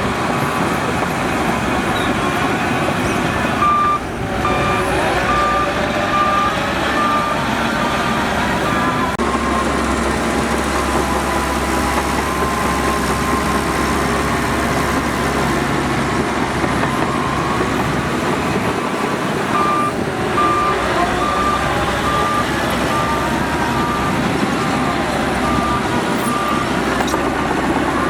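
Heavy earthmoving machinery, a crawler bulldozer and dump trucks, running steadily at a land-fill site, with a reversing alarm beeping at a steady rate in two spells, about 4 seconds in and again near 20 seconds in, as a machine backs up.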